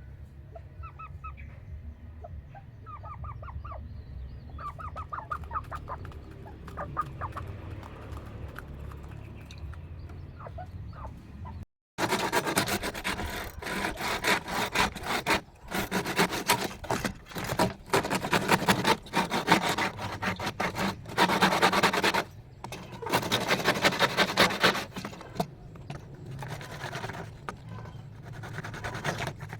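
Poultry calling in short repeated calls over a low rumble. After a sudden cut about 12 seconds in, a much louder, uneven scraping noise comes and goes in long stretches.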